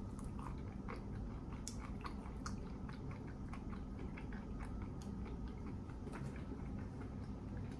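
A person chewing a mouthful of fried clams: irregular small clicks and crunches of the breaded food and the mouth, over a steady low room hum.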